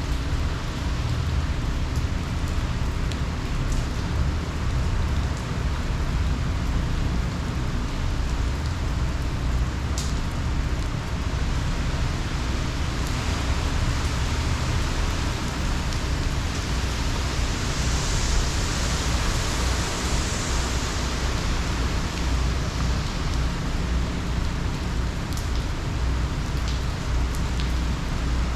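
Heavy hurricane rain falling steadily, with a low rumble of wind underneath and a few sharp drop ticks. The downpour swells briefly about two-thirds of the way through.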